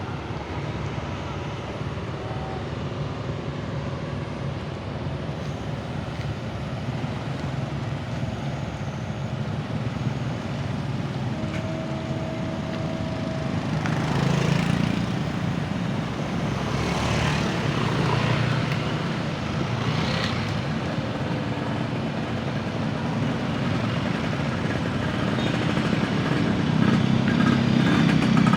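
A Kobelko excavator's diesel engine running steadily at a low pitch, with a few louder, sharper metallic noises about halfway through, then growing louder toward the end.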